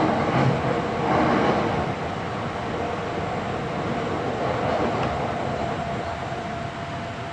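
Hankyu 7300 series electric train running at speed, heard from inside the car: a steady rumble of wheels on rail with a faint steady hum from the drive, louder for the first two seconds or so.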